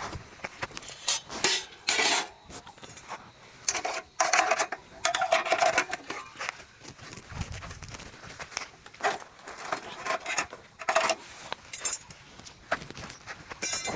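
Metal cookware being handled: utensils clinking and scraping against pots and pans in irregular strokes, some scrapes ringing with a metallic tone.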